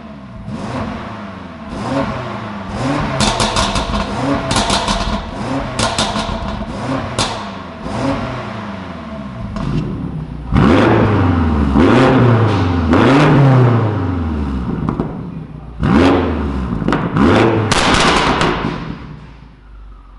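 BMW M5 (F90) twin-turbo V8 revved repeatedly through an ARP valved exhaust: a run of short blips, then longer, louder revs, the pitch rising and falling each time, with sharp crackles as the revs drop.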